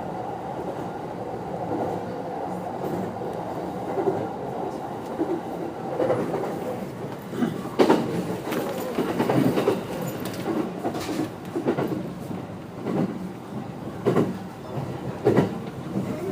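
Running sound inside a JR 209 series 500-subseries electric train: a steady rolling rumble, then from about six seconds in, repeated sharp clacks as the wheels pass over rail joints, roughly one or two a second.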